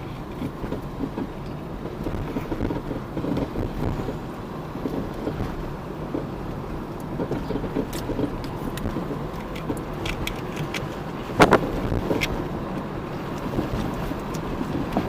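Car driving with steady road and running noise, over which come irregular short knocks and rattles from the car, one much louder knock about eleven seconds in. The knocking is a new, unexplained fault, which the owners suspect comes from the brake pads.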